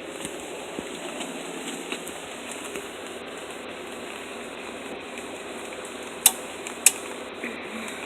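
Steady hiss of falling rain, with two sharp clicks near the end.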